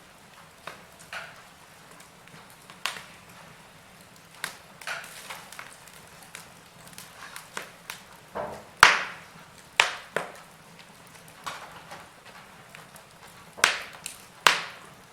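Wood fire crackling in a fireplace: burning logs giving off irregular sharp pops over a faint steady hiss, the loudest pop about nine seconds in and two more near the end.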